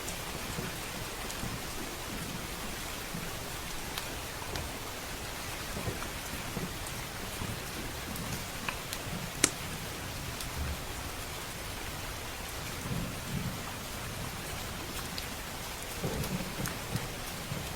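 Steady heavy rain with low rumbles of thunder swelling up twice in the second half, over a crackling wood fire giving scattered small pops and one sharp, louder pop about halfway through.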